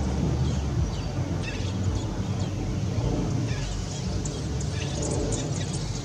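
A steady low rumble, with faint, short bird chirps breaking through a few times.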